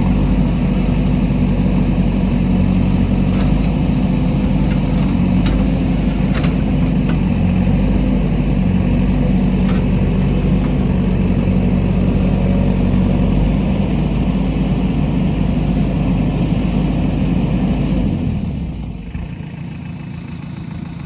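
JCB backhoe loader's diesel engine running steadily at working revs, then falling quieter and lower near the end.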